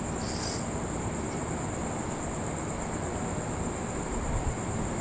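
Crickets trilling steadily in a high, unbroken tone, over a continuous low rumble.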